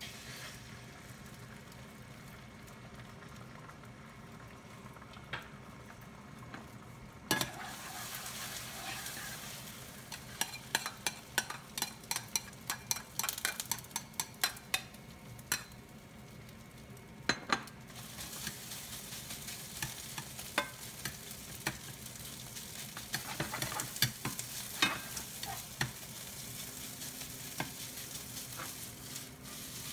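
Egg and rice frying in sesame oil in a GreenPan ceramic nonstick frying pan on an induction hob: a steady sizzle that grows louder about a quarter of the way in, with frequent clicks and scrapes of a ladle stirring and breaking up the rice against the pan.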